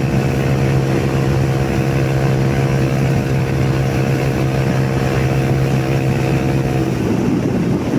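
Yamaha YBR 125 motorcycle's single-cylinder four-stroke engine held at a steady high pitch near top speed, about 115 km/h, with wind rushing past. Near the end the steady engine tone fades away.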